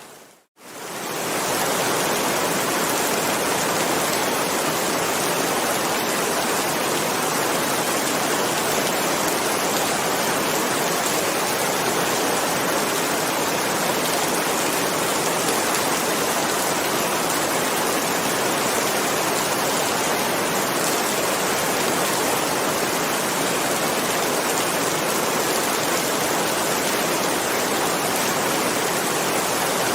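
Steady heavy rain, an even hiss of falling water. Just after the start it fades in again from a brief moment of silence.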